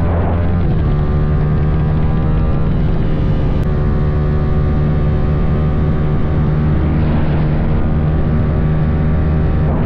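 Motorcycle engine running steadily at an even speed, with brief swells in the note about seven seconds in and near the end.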